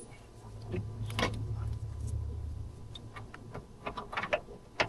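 Scattered light clicks and taps of hand tools on metal during rack-and-pinion work, coming closer together in the last couple of seconds, over a low steady hum.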